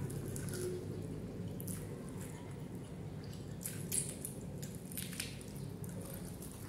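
Wet chewing and mouth smacks from eating pork curry and rice by hand, with a few short sharp clicks, the loudest about four seconds in, over a faint steady low hum.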